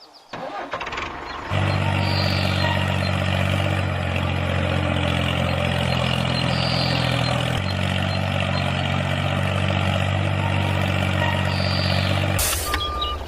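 Tractor engine running steadily at an even low pitch, starting about a second and a half in and cutting off abruptly near the end.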